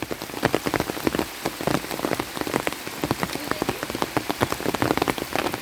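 Rain falling hard, with many close drops striking in quick, irregular succession over a steady hiss; the shower is picking up again.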